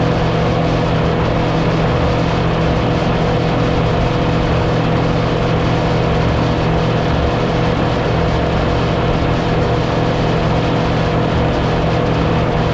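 Motorboat engine running at a steady speed, with the rush of water and wind over it.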